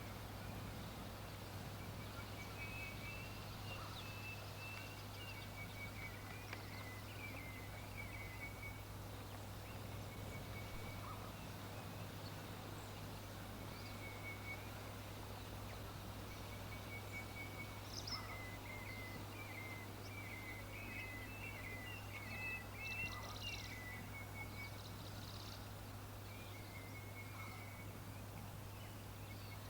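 Small songbirds chirping and twittering faintly in several runs of quick, high notes, over a steady low hum.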